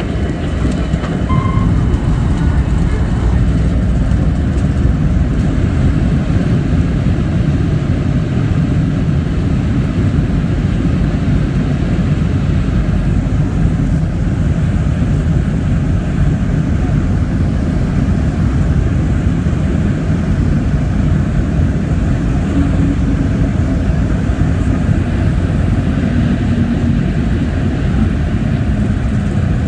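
Steady, loud low rumble of a Boeing 737-800's engines and airflow heard from inside the passenger cabin.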